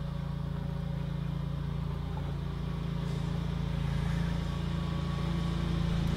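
An engine running steadily, its low hum slowly growing louder.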